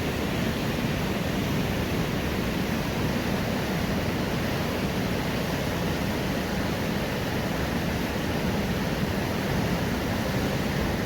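Steady rushing of river water at the mill, an even noise with no distinct events.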